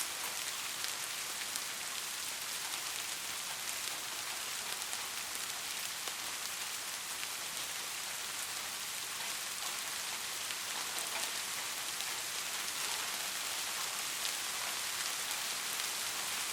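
Steady rain falling: an even, high-weighted hiss with many small drop ticks through it.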